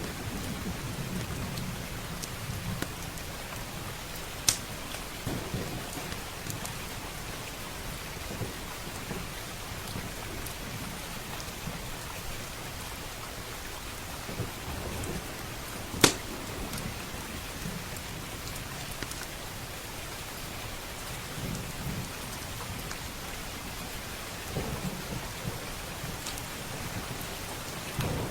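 Steady rain with low rolling thunder rumbling on and off. Sharp pops from a crackling wood fire stand out, loudest about four and a half seconds in and again about sixteen seconds in.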